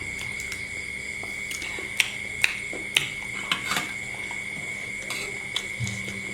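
Eating sounds: a dozen or so soft, sharp clicks and taps, irregularly spaced, of mouth and utensil noises while eating balut, over a faint steady high whine.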